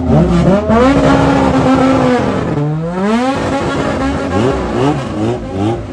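Race car engine revving hard under acceleration. The pitch climbs and holds, drops briefly about two and a half seconds in, as at a gear change, and climbs again. Near the end come quicker short rises and falls of revs.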